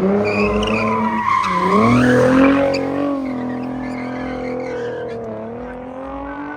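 Car engine revving high while its tyres squeal and skid. The engine pitch dips once about a second and a half in, climbs back and then slowly eases off.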